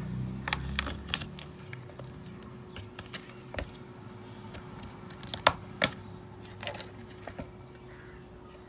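Irregular sharp clicks and taps of small hard objects, like tools and phone parts handled on a repair bench, the loudest a pair about five and a half seconds in, over a faint steady hum.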